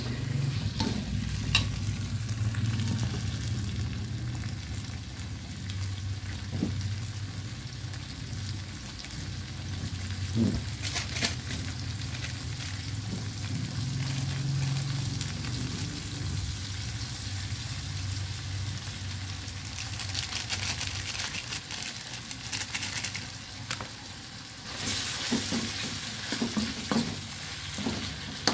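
Squirrel meat being stir-fried in a pan for spicy rica-rica: steady sizzling with a spatula scraping and clicking against the pan, over a low steady hum. The sizzle grows louder for a couple of seconds near the end.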